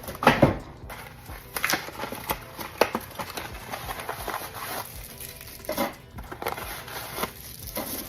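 Irregular crinkling of plastic snack wrappers and light knocks as packaged snacks and drinks are handled and set into a mini fridge.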